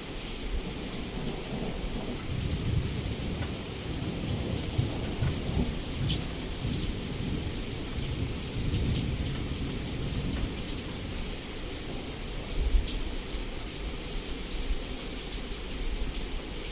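Heavy rain pouring steadily against a window, with drops ticking, while low thunder rolls and rumbles underneath, swelling and fading.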